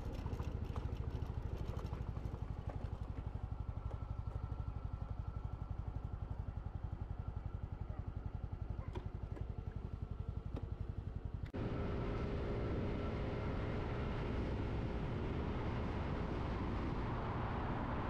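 Motorcycle engine running while riding, with a fast, even pulsing beat. About two-thirds of the way through, the sound changes abruptly to a louder, denser engine and road noise.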